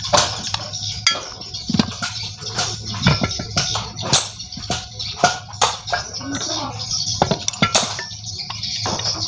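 Metal engine parts and hand tools clinking and knocking together in irregular sharp taps, several a second, while a motorcycle engine is being taken apart.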